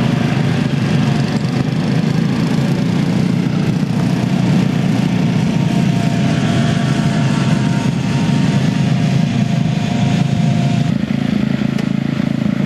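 Riding lawn mower engine running steadily, a continuous loud small-engine drone.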